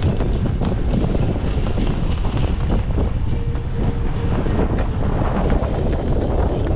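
Steady, loud wind buffeting the microphone aboard a sailboat under way, a low rumbling rush.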